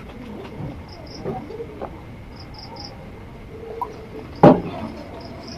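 Short high chirps from a small animal, singly and in a quick run of three, over a faint background, with one sharp loud knock about four and a half seconds in.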